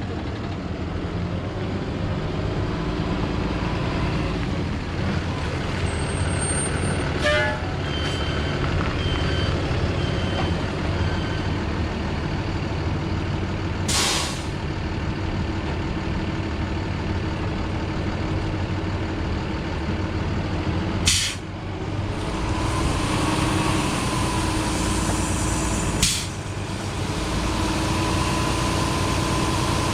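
A 2013 Ford F750 water truck's engine running steadily, with several short, sharp hisses of air released from its air system, about four in all.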